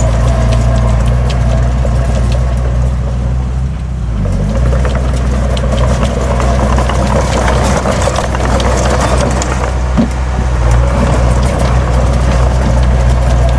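Heavy diesel earthmoving machine's engine running steadily, with a brief change in pitch about four seconds in and a louder stretch of scraping and clanking in the middle.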